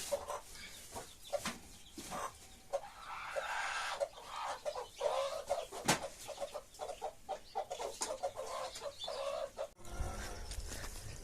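Chickens clucking in a quick run of short calls, with a single sharp click about halfway through. Near the end the clucking breaks off and a low rumble takes over.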